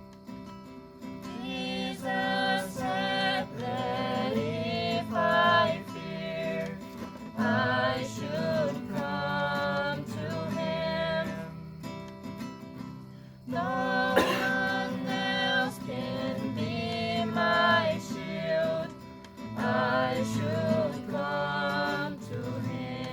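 Music: voices singing a song to acoustic guitar, in phrases of a few seconds each.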